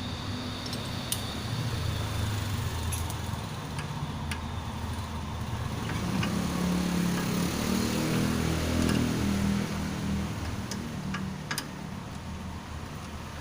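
A motor vehicle's engine hum that swells in the middle and fades again, with scattered light clicks over it.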